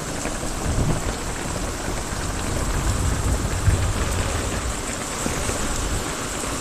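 Steady rain falling on a metal roof, with a low roll of distant thunder from about a second in until near the end.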